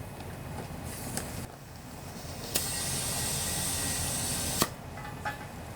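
Compressed air hissing from an air chuck as a riding mower's tire is aired up: one hiss starts with a click about two and a half seconds in and cuts off with a click about two seconds later, with a few small clicks near the end.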